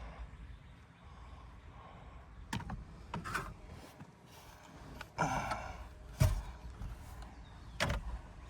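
Handling noise: a handful of sharp knocks and clicks with some rubbing in between, the loudest about six seconds in.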